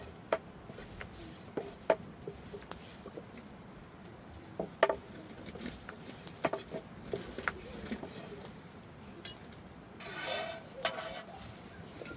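Scattered light knocks and clinks of objects being handled, with a short rough, rasping sound about ten seconds in.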